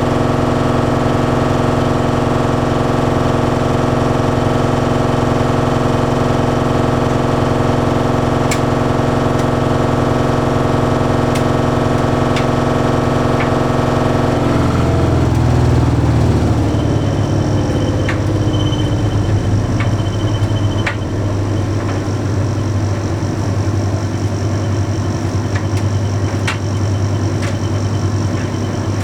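Bosch Series 6 heat pump tumble dryer running mid-cycle: a steady hum with many even tones. About halfway through it changes to a rougher, lower hum, and a few light clicks sound now and then.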